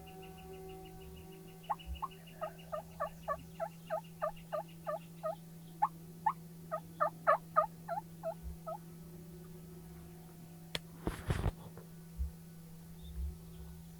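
Wild turkey yelping: a long rhythmic run of about twenty short notes, roughly three a second, growing louder toward the end. About eleven seconds in comes a click and a short loud burst of noise.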